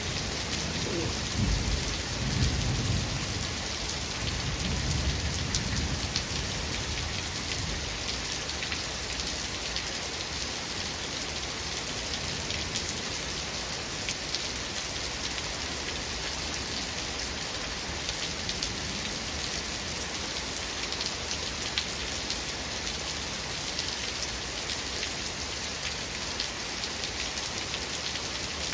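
Steady rain falling, with a low rumble of thunder in the first few seconds that dies away; after that only the rain continues, with scattered individual drop ticks.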